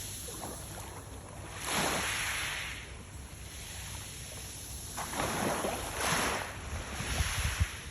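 Small waves washing onto the shore, with two swells of surf about three seconds apart, and wind buffeting the microphone near the end.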